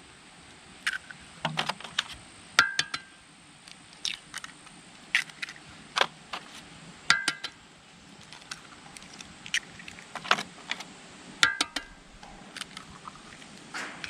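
Eggs being cracked on the edge of a skillet: scattered sharp taps and clinks, three of them with a short ringing note.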